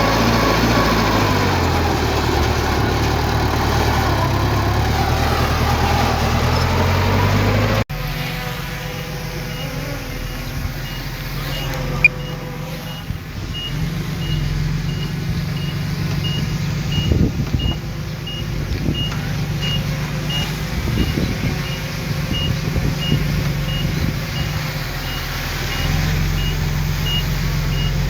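Diesel engines of heavy earthmoving machinery running, their pitch rising and falling for the first several seconds. After an abrupt cut the engine runs steadily with a reversing alarm beeping at an even pace, about one and a half beeps a second, as a machine backs up.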